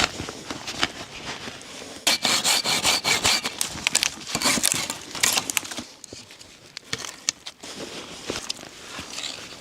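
Hand saw cutting through wood in a run of quick strokes from about two seconds in until past five seconds, with lighter knocks of wood being handled before and after.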